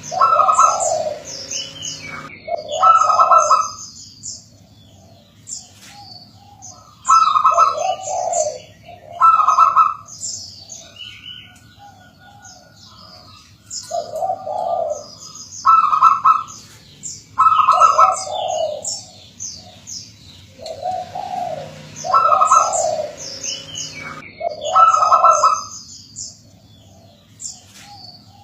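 Perkutut (zebra dove) cooing its several-note song phrase, repeated in groups every few seconds, with high chirping over and between the coos.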